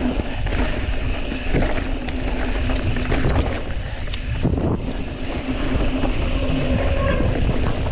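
Wind rushing over the microphone, with tyre rumble and rattling from a mountain bike riding over a dirt trail, and a few sharp knocks along the way.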